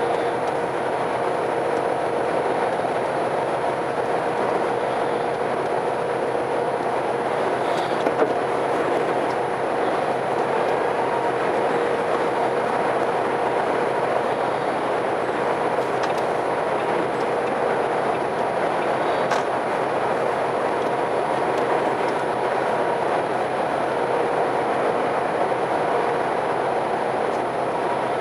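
Steady running noise of a moving vehicle, with a constant hum and a few faint clicks.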